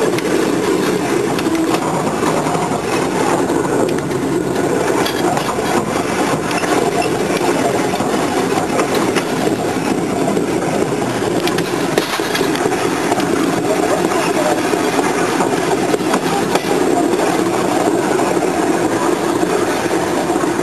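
A train running steadily along the track, a continuous noise of engine and wheels on the rails heard from on board, with one brief knock about halfway through.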